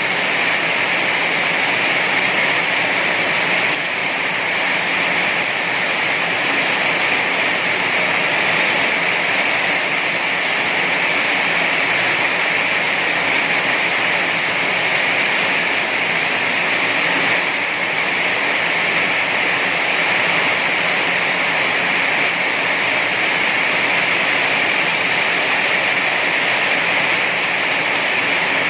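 Heavy rain falling steadily: a dense, even hiss with no letup or single drops standing out.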